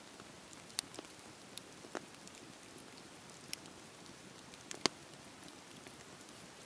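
Wood fire crackling: a steady soft hiss with scattered sharp pops at irregular intervals, the loudest pop about two-thirds of the way through.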